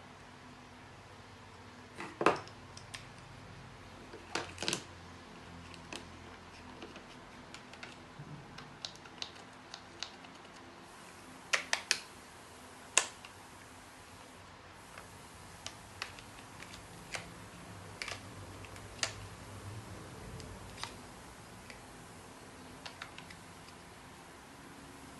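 Scattered sharp clicks and light knocks of small hard objects being handled and set down, irregular and a few seconds apart, with a cluster of louder clicks about twelve seconds in.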